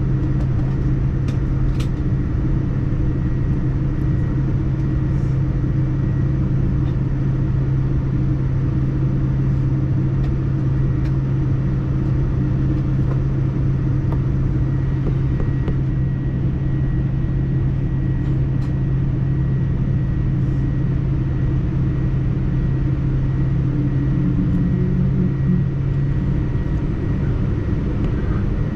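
Steady low drone and rumble inside the cabin of a Boeing 787-9 airliner taxiing on the ground, its engines at idle.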